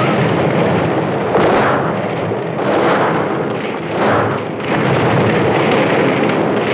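Gasoline fire and explosion at a gas station: a loud continuous rumble that swells into stronger blasts about one and a half, three and four seconds in.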